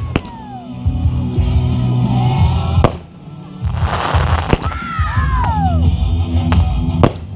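Loud pop music over a fireworks display, with sharp firework cracks going off every second or two and a few falling whistling tones about halfway through.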